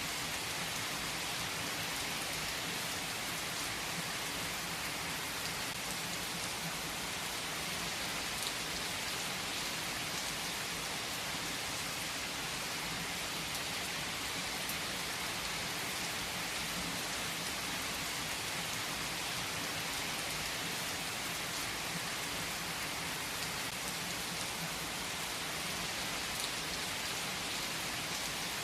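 Steady rain falling, a dense even hiss of drops with a few faint sharper ticks.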